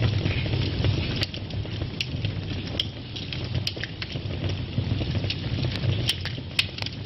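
Wood fire burning in a fireplace: a steady low rumble of flames with scattered sharp crackles and pops, several of them close together about six seconds in.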